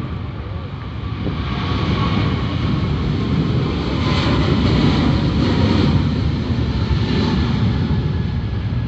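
Boeing 777 airliner's twin turbofan engines running at high power: a loud, dense rumble with a faint high whine, building over the first couple of seconds and strongest through the middle.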